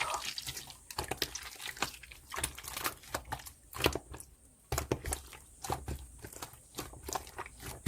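Irregular clicks, taps and soft rustling close to the microphone: handling noise from a device being held and touched.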